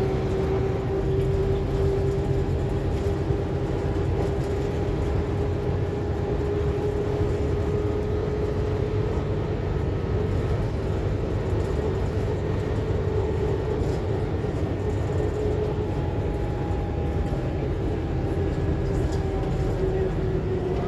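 Scania K280UB4 city bus driving, heard from inside the passenger cabin: a steady low engine and road rumble with a faint whine that drifts slightly up and down in pitch.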